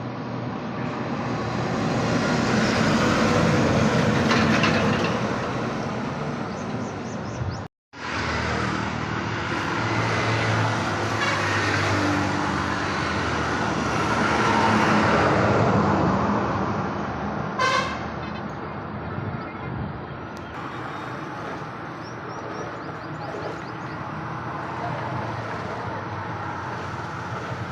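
Road traffic: vehicle engines swelling twice as they pass close by, with a short horn toot about two-thirds of the way through. The sound cuts out for a moment about a quarter of the way in.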